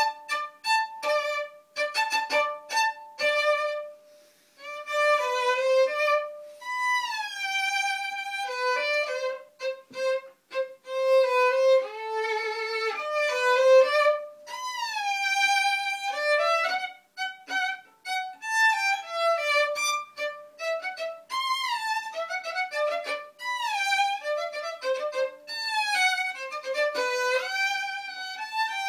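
Solo violin playing a waltz tune. It opens with short detached notes, pauses briefly about four seconds in, then moves into phrases with repeated sliding notes that swoop up and down in pitch.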